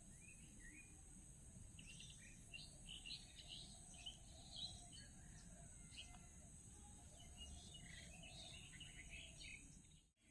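Faint chirping of small birds, many short quick calls, most of them in the middle of the stretch, over a steady low background hiss.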